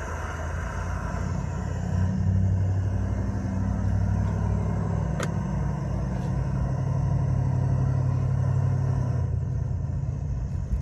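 A motor vehicle's engine running close by, a low steady rumble that swells about two seconds in and eases near the end. A single sharp click about five seconds in.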